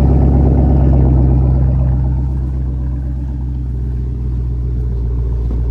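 Car engine idling loudly, a deep steady rumble with a fast pulsing beat that eases a little about two seconds in.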